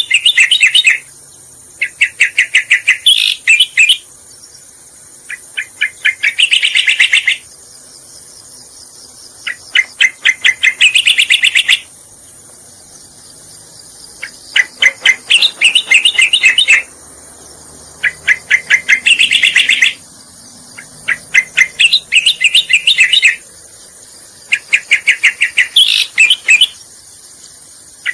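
Cica koreng (striated grassbird) song from a bird-lure recording: about eight phrases, each a fast run of notes lasting around two seconds, with short pauses between them. A steady high insect drone runs underneath.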